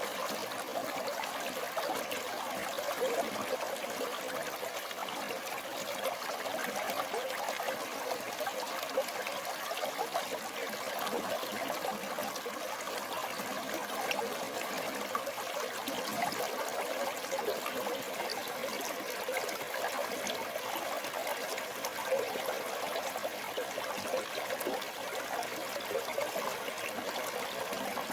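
Stream water flowing steadily, a continuous trickling rush.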